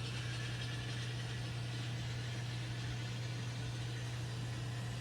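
N scale model train running along the main line: a steady low hum with a light hiss over it, unchanging in level.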